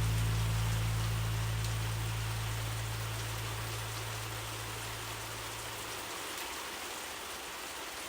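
Steady rain hiss, with the song's last low held note fading away beneath it and dying out about six seconds in.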